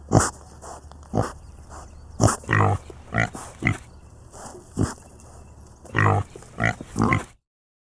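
Pig grunting: a run of about a dozen short, irregularly spaced grunts over a low hum, cut off abruptly near the end.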